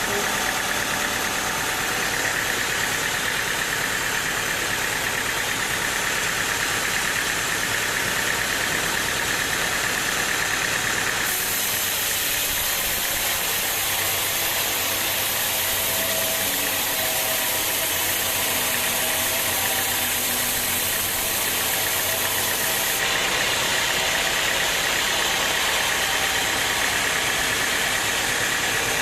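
Sawmill machinery running steadily, an engine-driven machine at constant speed. From about a third of the way in until near the end the sound turns brighter and hissier, then settles back.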